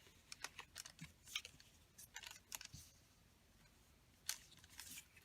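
Faint handling of paper: scattered light rustles and small taps, the crispest about a second and a half in and about four seconds in.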